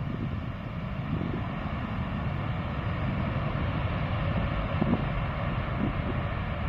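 Jet engines of a Boeing 777 freighter on approach to land, a steady rumbling roar that slowly grows louder.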